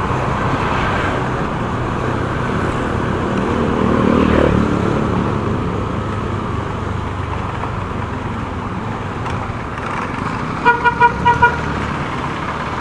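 Steady rumble of riding a motor scooter in traffic. Near the end a vehicle horn gives a quick run of about five short beeps.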